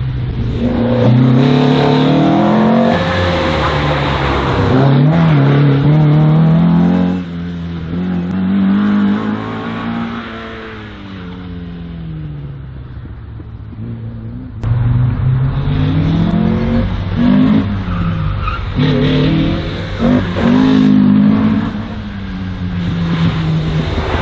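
A slalom race car's engine revving hard and easing off over and over, its pitch climbing and dropping with each burst of acceleration. It drops back for several seconds midway, then comes back suddenly louder about fourteen and a half seconds in.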